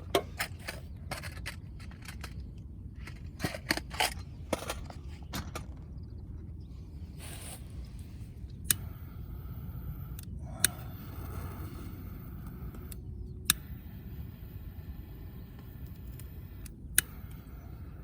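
Wood fire crackling in a fire stand over a steady low rumble, with a quick run of sharp pops in the first few seconds, then four single loud cracks spaced a few seconds apart.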